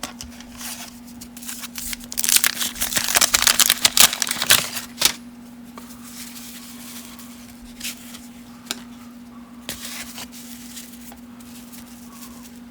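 A 1990 Topps wax pack's waxed-paper wrapper being torn open and crinkled for about three seconds, then a few soft clicks and rustles as the baseball cards are handled. A steady low hum runs underneath.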